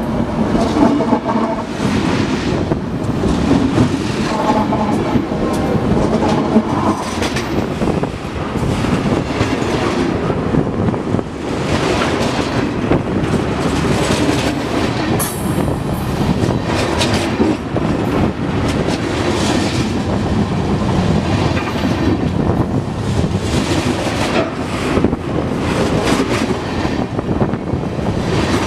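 Freight train cars rolling directly overhead: a loud, steady rumble of steel wheels on the rails, with rapid clicking as each wheelset passes. About halfway through there is a short, high-pitched wheel screech.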